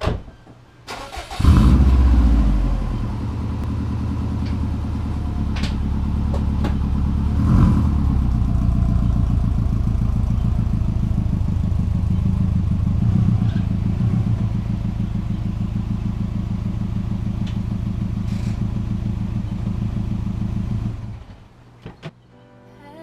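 Turbocharged 2004 Subaru WRX flat-four with an aftermarket titanium cat-back exhaust starting up: a loud flare about a second and a half in that settles within a second to a steady idle. There is a short louder moment about seven and a half seconds in, and the engine is switched off near the end.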